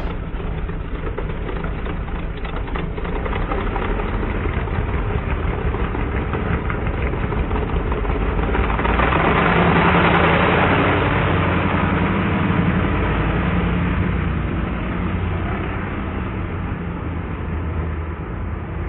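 A vehicle engine running steadily, swelling louder about ten seconds in and then easing off again.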